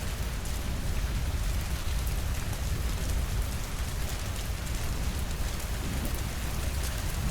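Steady rainfall on a surface, with many small drop ticks over a constant deep rumble.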